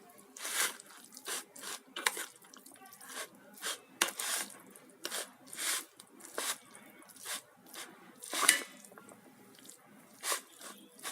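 Oiled, boiled noodles being tossed and stirred in a bowl: short, irregular wet squishing and rubbing strokes, about one or two a second, with one louder stroke near the end.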